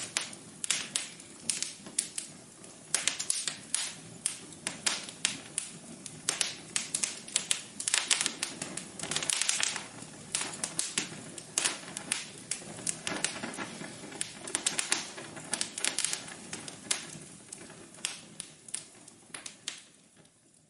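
Wood fire crackling in a fireplace: irregular sharp pops and snaps, several a second, with a stretch of steadier hiss about eight to ten seconds in. The crackle drops out abruptly at the very end.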